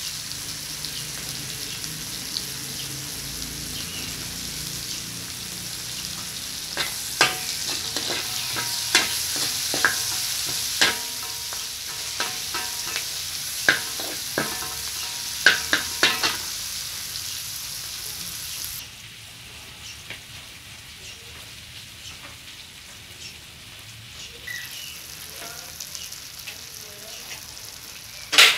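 Onions and chopped ingredients sizzling in oil in a wide metal wok, with a metal spatula scraping and knocking against the pan in a run of sharp clicks from about a quarter of the way in to just past the middle. The sizzle turns quieter about two-thirds of the way through, and a few more loud knocks come near the end.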